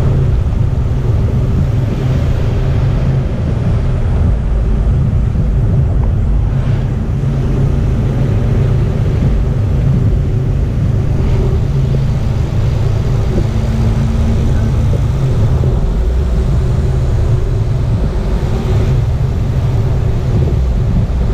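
Vehicle driving: a steady, loud low rumble of engine and road noise.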